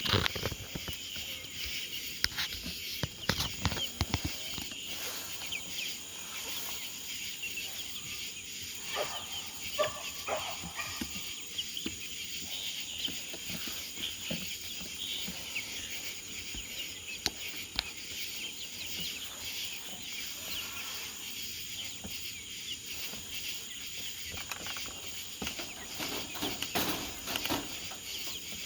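Night insects, crickets and the like, chirring steadily in a high-pitched chorus, with scattered clicks and a few short chirps.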